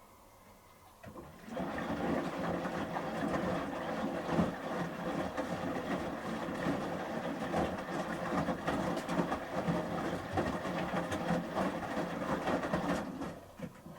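Samsung Series 5+ front-loading washing machine's drum turning during the main wash, tumbling wet shirts through water with a sloshing, clicking churn. It starts about a second in and stops shortly before the end, one turn of the drum's stop-start wash action.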